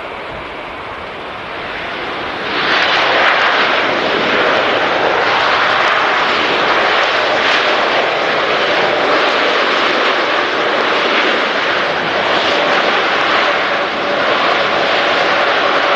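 Large jet airliner's engines roaring as it passes low on its landing approach. The roar builds, turns suddenly much louder about two and a half seconds in, and stays loud, with a steady whine showing through in the latter part.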